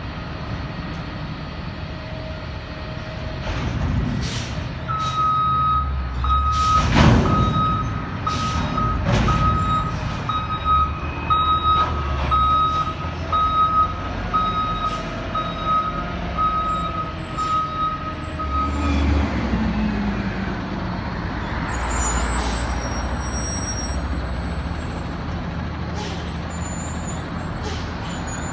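Peterbilt 320 front-loader garbage truck with its diesel engine running, its reverse alarm beeping steadily for about fourteen seconds. Several sharp metal bangs and clanks fall in the first ten seconds, more come near the end, and a hiss of air follows the beeping.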